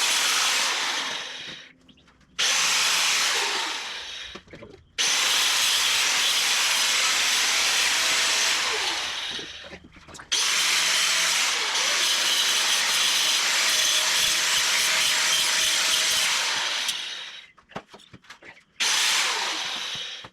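Handheld power tool working wood, run in five long bursts that start sharply and wind down each time the trigger is let go, the longest lasting about six seconds.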